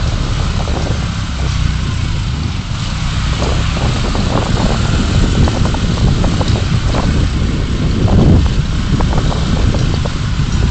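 Car driving in city traffic: a steady low rumble of engine and road noise, with scattered small rattles and clicks.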